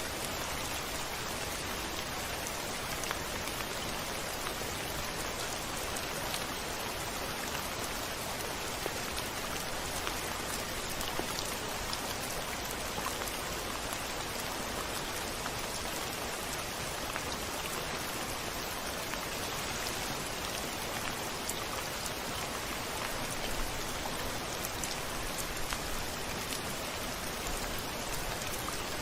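Steady rain falling on a window, with many small drops pattering against the glass.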